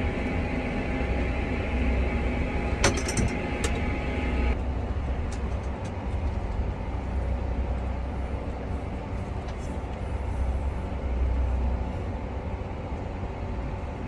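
Tractor engine running steadily under load, pushing a broken-down semi truck up a hill, with a deep rumble throughout. A higher whine sits over it and cuts off about four and a half seconds in, and there is a sharp click near three seconds.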